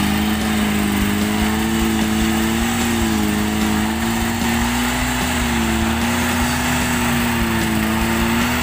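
Suzuki Vitara off-roader's engine held at steady, fairly high revs, its pitch wavering only slightly, as the 4x4 crawls slowly up a steep rut.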